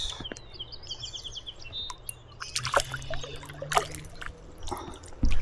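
Shallow river water trickling and splashing around a wading angler, with scattered clicks and knocks. There is a quick run of rapid high ticks about a second in and a loud knock near the end.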